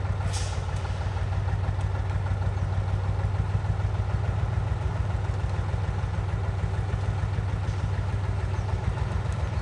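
Diesel engine of a log truck running steadily at an even low pitch, with a short hiss about a third of a second in.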